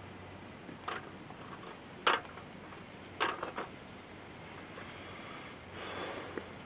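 A few short, sharp clicks and knocks spaced about a second apart, with a faint rustle near the end and a low steady hum underneath.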